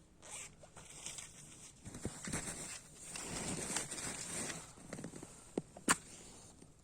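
Footsteps crunching in snow in an uneven series, with one sharp snap, like a twig breaking, near the end.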